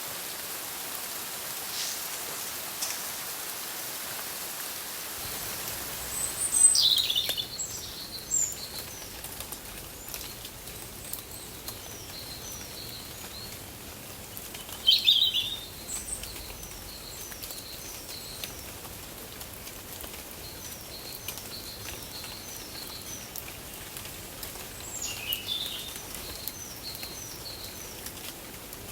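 Steady rain-like hiss, with a bird singing a loud phrase three times, roughly nine seconds apart, each phrase trailing off into a quick run of short high notes.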